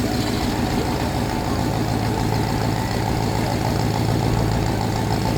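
Car engine running steadily at idle, a deep, even rumble.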